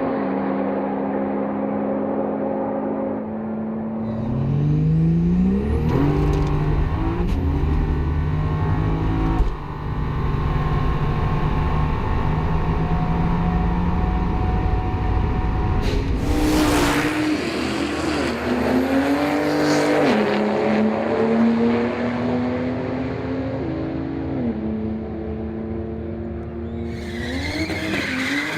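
Ford Barra 4.0-litre turbocharged straight-six engine revving under acceleration. Its pitch climbs several times and drops back between gears, and a rushing hiss comes in near the end.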